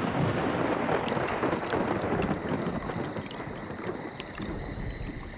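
Thunder rumbling over heavy rain in a monsoon rainforest night. The rumble comes in suddenly, is loudest for the first few seconds, then eases off.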